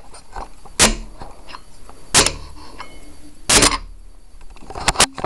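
Sharp knocks, about one every second and a half, with two quick ones close together near the end.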